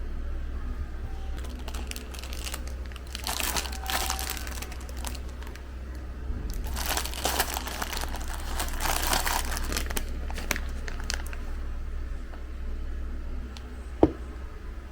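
Packaging crinkling as it is handled, in two stretches, over a steady low hum, with a single knock near the end.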